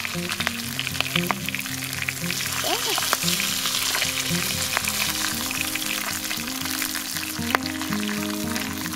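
Pieces of fish sizzling as they fry in a clay pan over a wood fire, with scattered sharp clicks from bamboo chopsticks working in the pan. Background music with held, changing notes plays alongside.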